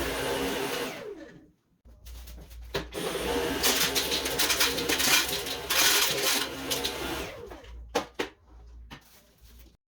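Dyson V11 cordless vacuum's motor running, then winding down about a second in with a falling whine. It starts again with a loud rush of air, winds down once more, and two sharp clicks follow near the end.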